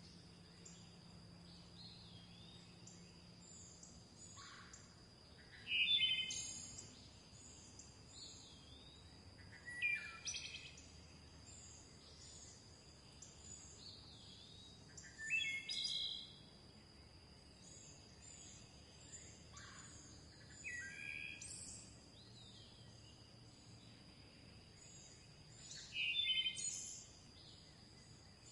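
Forest birdsong: one bird repeats a short song phrase of falling notes about every five seconds, the loudest sound, while other birds give faint high chirps over a steady high-pitched drone.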